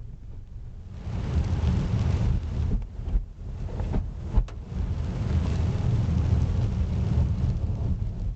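Heavy rain on a Mazda 3 sedan: a dense rushing rain noise with a deep rumble, quieter for the first second, then steady, with one sharp knock about four and a half seconds in.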